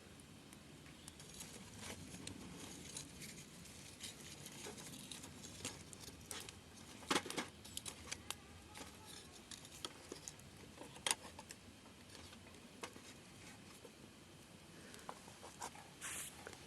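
Wood campfire crackling, with scattered small pops and two louder snaps about seven and eleven seconds in, and a brief hiss near the end.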